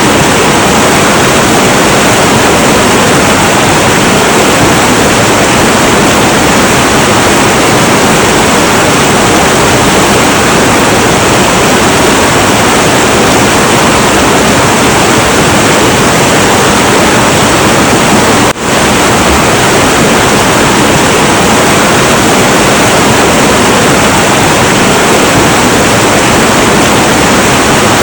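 Heavy, turbulent river water rushing in a loud, steady roar, with one brief drop in loudness about two-thirds of the way through.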